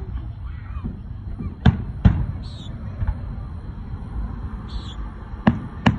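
Aerial fireworks bursting overhead: four sharp bangs, two close together about a second and a half in, and two more close together near the end, over a low rumble.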